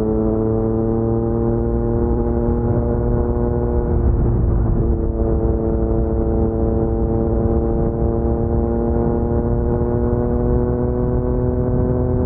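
Yamaha MT-09's crossplane three-cylinder engine running through an Akrapovic carbon full-system exhaust, a steady engine note whose pitch rises slowly as the bike rides along.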